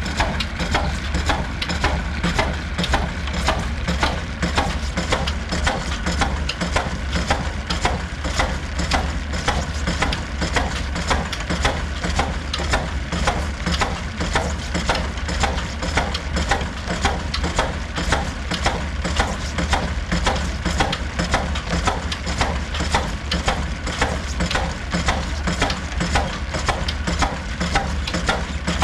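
Old stationary diesel engine running steadily, with an even beat of about three strokes a second.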